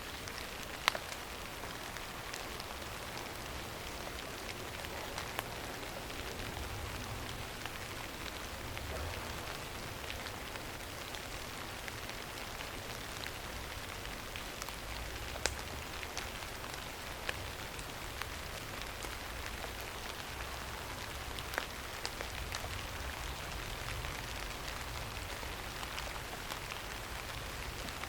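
Steady rain falling, an even hiss with scattered sharp drop ticks and a faint low rumble that swells and fades.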